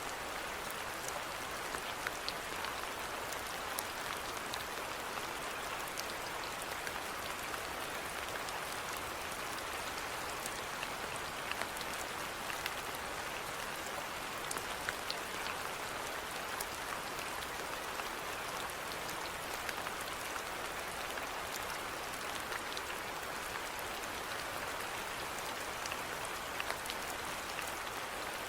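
Steady rainfall, an even hiss with many scattered small drop ticks.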